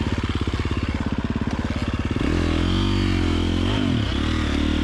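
KTM 350 XC-F single-cylinder four-stroke dirt bike engine chugging at low revs, then revving up about two seconds in and holding a steady higher note, with a brief dip about four seconds in.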